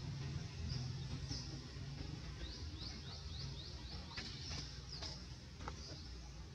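Small birds chirping: short high chirps, with a quick run of them about three to four seconds in, over a steady low rumble.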